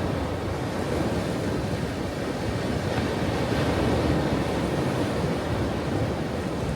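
Ocean surf: a steady rushing wash of waves that swells a little around the middle.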